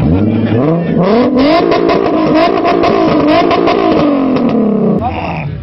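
Car engine revving up quickly and held bouncing on the rev limiter, with a string of sharp exhaust pops and bangs, the limiter backfire these cars are set up for. The revs drop away near the end.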